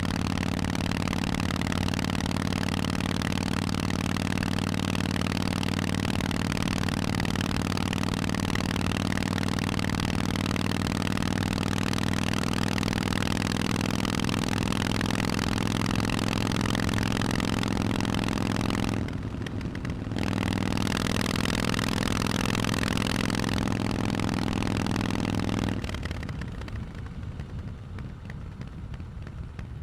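Harley-Davidson Forty-Eight's V-twin engine through Vance & Hines exhausts, running at a steady throttle while riding. About two-thirds of the way through, the note drops off for about a second and then comes back. Near the end it falls away, leaving a quieter rushing noise.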